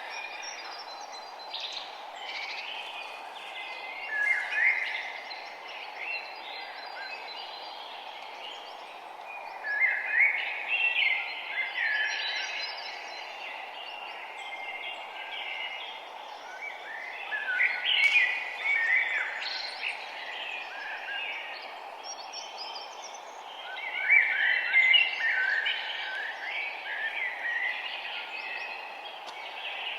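Several songbirds singing in phrases over a steady low background hiss. The song comes in bursts about four seconds in, around ten to thirteen, seventeen to twenty and twenty-four to twenty-seven seconds in.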